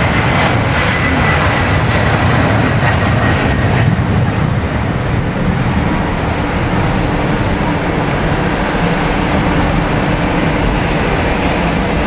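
Boeing 767-300 twin-engine jet airliner taking off: the engines at takeoff power give a loud, steady rumble. A faint high whine fades out over the first few seconds.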